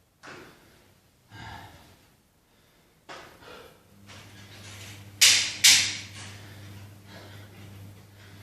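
A person breathing hard between exercise efforts: separate heavy breaths, then two loud, sharp exhalations in quick succession about five seconds in. A low steady hum starts about four seconds in.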